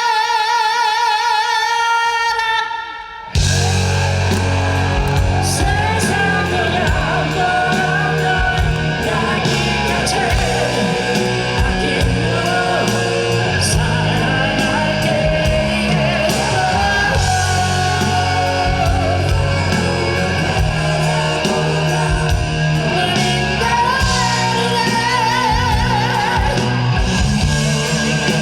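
Live rock band: a male singer holds a long note with wide vibrato over a quiet backing, then about three seconds in the full band crashes in loud with drums, bass and electric guitar and plays on as an instrumental passage.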